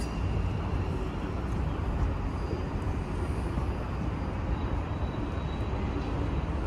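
A train rolling past with a steady rumble.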